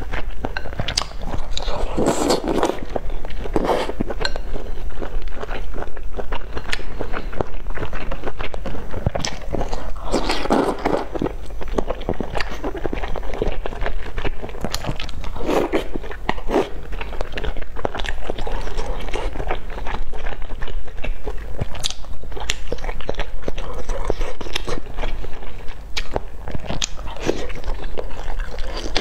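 Close-miked chewing and wet mouth sounds of a person eating soft food from a spicy hotpot, with many small clicks and louder bursts of chewing every few seconds. A steady low hum runs underneath.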